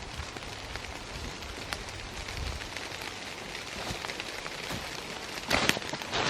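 Campfire crackling: a steady patter of small pops and hiss, with a louder rustling burst about five and a half seconds in and another near the end.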